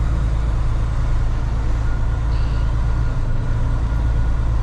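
Semi-truck tractor's diesel engine running with a steady low drone.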